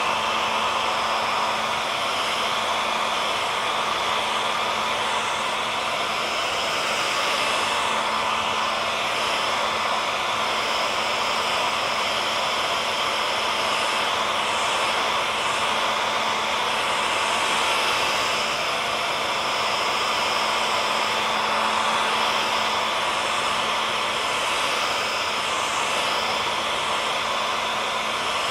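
Hand-held hair dryer running steadily: a constant rushing of blown air with a faint steady motor whine under it.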